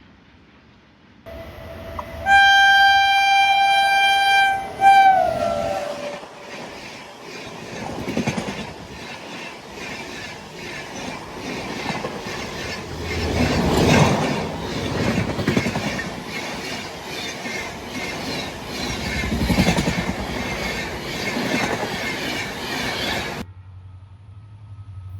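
Indian Railways goods train passing: the locomotive horn sounds for about three seconds and drops in pitch as it goes by, then the wagons rattle past with a steady clickety-clack of wheels over rail joints. The sound cuts off abruptly near the end.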